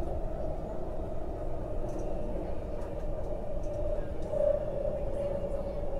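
MTR SP1900 electric train (Kinki Sharyo–Kawasaki) running at speed, heard from inside the carriage: a steady low rumble of the wheels on the rails with a steady humming tone from the drive, which dips slightly in pitch and swells about four seconds in.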